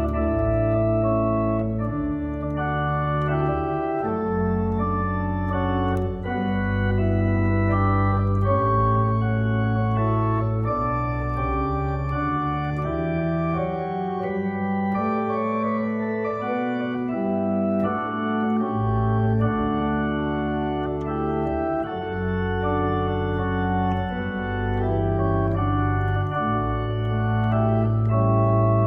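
Organ music: slow, held chords that change every second or two over deep bass notes. The bass drops away for a few seconds around the middle before returning.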